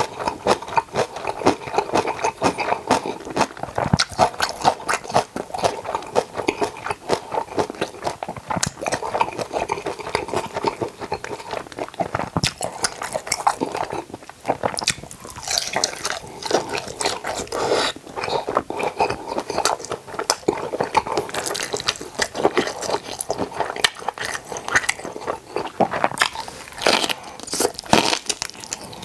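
Close-miked eating sounds: a steady run of wet crunches, chewing and mouth smacks from mouthfuls of fresh napa cabbage kimchi and boiled pork belly. Near the end a fresh bite of kimchi leaf goes in.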